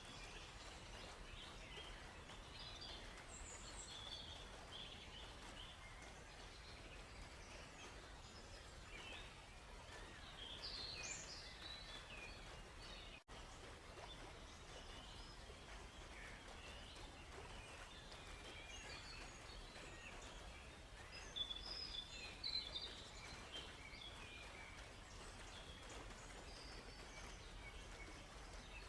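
Faint forest birdsong: several small birds chirping and calling in short, scattered phrases over a steady low background hum. The sound drops out for an instant about halfway through.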